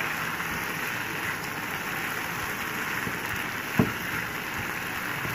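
Chicken mince, garlic and sliced green chillies sizzling steadily in butter in a non-stick frying pan as they are stirred. A single sharp knock about four seconds in.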